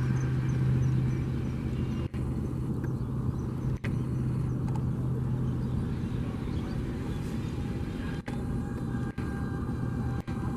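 A steady low engine rumble with a constant hum. The sound drops out for an instant five times.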